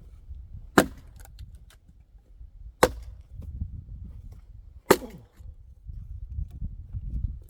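Axe blows splitting oak firewood by hand: three sharp strikes about two seconds apart, with a low rumble between them.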